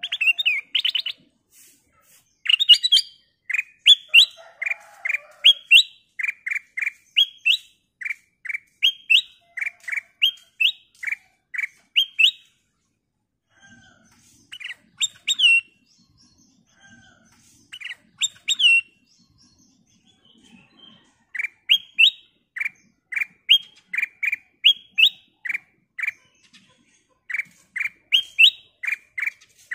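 Black-crested bulbul (kutilang emas) calling: short, sharp chirps in quick series, about two a second, broken by a couple of brief pauses.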